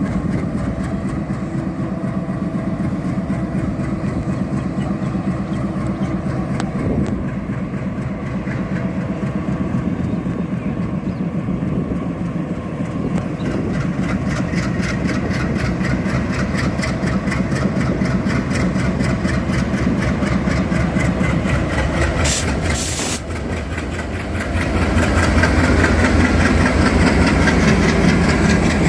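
Express train running into a station: the locomotive's engine hum and the steady rhythm of the wheels on the rails. There is a brief high hiss about three-quarters of the way through, and the engine gets louder near the end as the locomotive comes closer.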